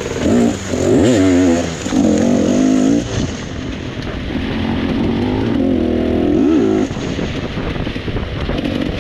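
Dirt bike engine revving up and down in repeated bursts, its pitch rising and falling with the throttle.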